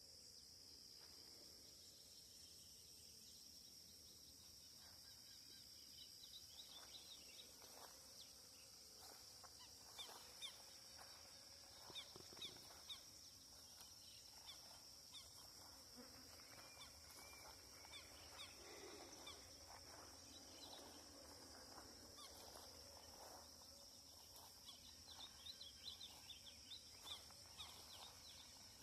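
Faint outdoor ambience: a steady high-pitched insect drone, with scattered short bird calls that come in clusters about a third of the way in and again near the end.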